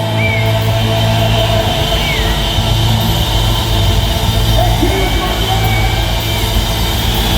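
A live rock band holds a loud, ringing chord with a steady low bass tone, with no drumbeat. Crowd noise and a few short whistles or whoops rise over it, as at the close of a song.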